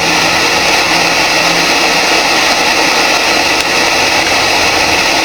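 Steady, loud radio static hiss from a PSB7 spirit box, with no clear voice coming through.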